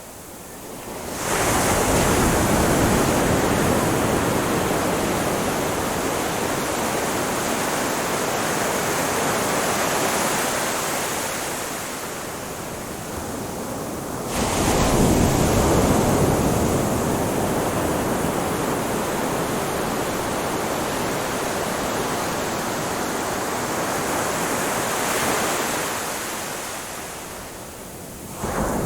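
Ocean surf on a beach: waves breaking and washing over the shore in a steady rush. It fades in at the start, eases off and then surges back with a new wave about halfway through, and again near the end.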